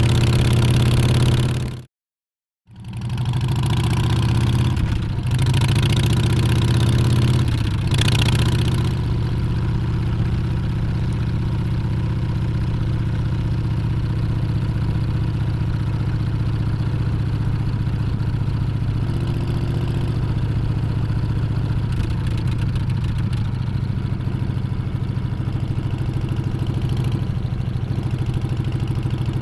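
Harley-Davidson Street Bob's Milwaukee-Eight 114 V-twin engine running. It cuts out abruptly for about a second near the start. The engine then revs in rising and falling swells for several seconds before settling into a steady, deep idle.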